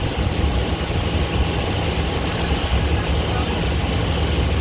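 Tour boat's engine running steadily under way, a constant low hum under a rush of wind and water.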